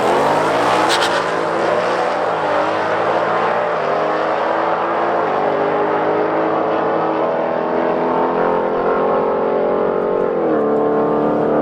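Drag racing cars launching from the start line and accelerating hard down the strip. The engine pitch climbs steeply at the launch, then drops at upshifts about two and five seconds in.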